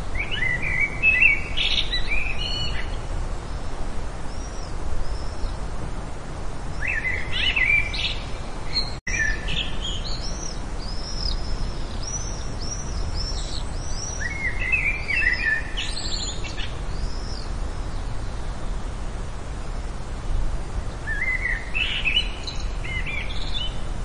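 A songbird singing short phrases of quick notes about every seven seconds, with thin high chirps in between, over a steady background rush. The sound cuts out for a split second about nine seconds in.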